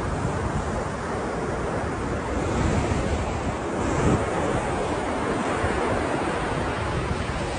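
Ocean surf: a steady wash of breaking waves that swells a little louder in the middle, peaking about four seconds in.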